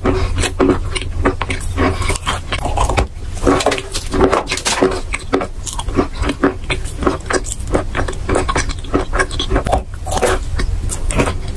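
Close-miked chewing of chalk, crunched wet into a paste, heard as dense irregular crackles and clicks; near the end a fresh bite into a chalk block.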